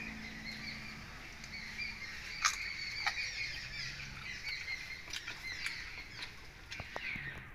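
Small birds chirping repeatedly in the background, with a few soft clicks.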